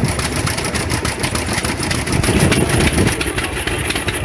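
Old engine running steadily with a rapid, even beat.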